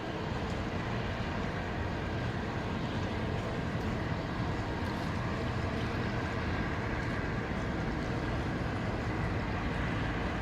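Steady low rumble of a large cruiseferry under way as she passes, her four 16-cylinder Wärtsilä-Sulzer diesel engines running, mixed with a hiss of wind and water.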